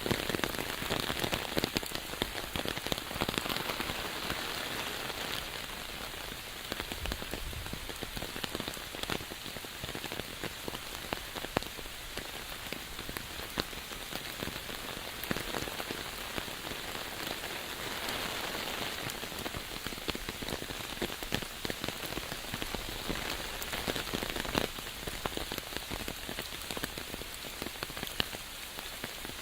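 Steady rain falling, a dense even hiss with many close individual drops ticking through it.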